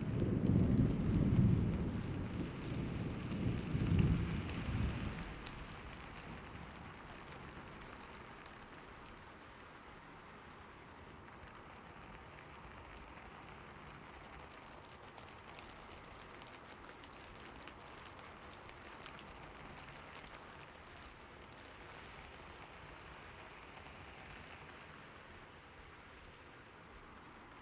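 Thunderstorm: a roll of thunder in the first five seconds, swelling twice before it fades, over steady rain that goes on alone afterwards.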